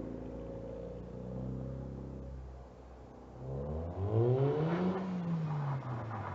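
Kia Rio engine heard through its split dual-outlet exhaust, idling, then revved once about halfway through, rising and falling back to idle.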